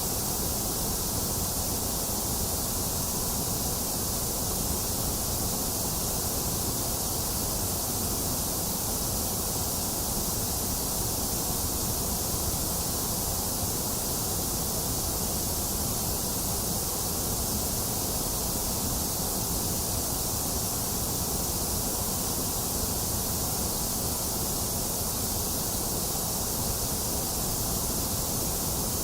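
Steady synthetic white noise: a constant, even hiss with no change in level, heavier in the high hiss and the low rumble than in between.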